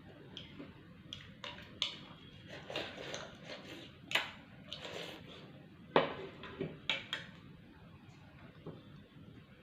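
Close-miked eating: a run of short crunches, clicks and mouth sounds, with the sharpest click about six seconds in.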